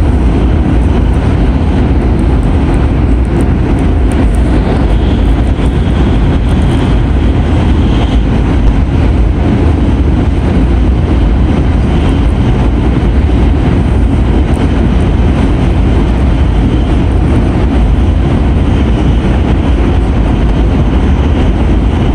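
Shinkansen bullet train running steadily, a constant low rumble and hiss heard from inside the passenger car.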